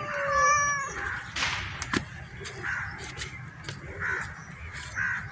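A cat meows once at the start, then crows caw several times, short hoarse calls spaced a second or so apart, with a few light clicks in between.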